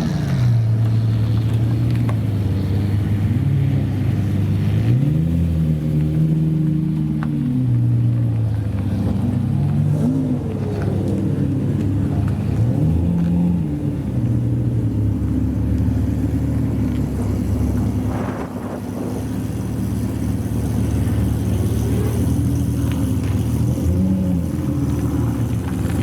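Supercar engines running at low revs, the engine note rising and falling several times, with a dip in level around eighteen seconds in.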